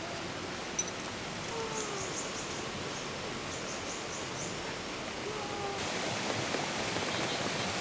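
Steady rushing water noise of rain and running water, with a single click about a second in and a few short, high chirps through the middle; the rushing turns brighter and louder about six seconds in.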